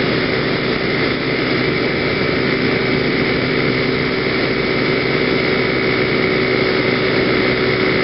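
Genuine PGO Bubu 125cc scooter's single-cylinder four-stroke engine running at a steady cruising speed, with wind rushing over the helmet-mounted camera.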